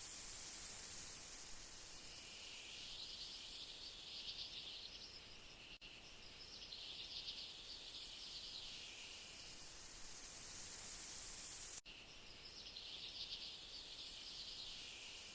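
Faint insects trilling in waves, three bouts that swell and fade over a steady hiss, with the sound cutting out for an instant twice.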